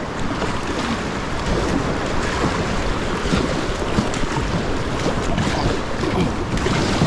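Rushing river rapids around a kayak being paddled hard upstream, a steady wash of moving water, with wind buffeting the microphone.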